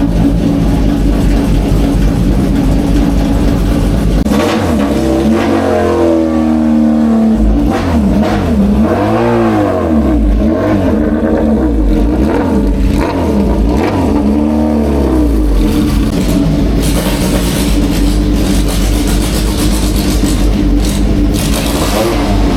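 Historic racing car engines running loud. From about four seconds in, the pitch climbs and drops again and again for some ten seconds, then settles back to a steadier run.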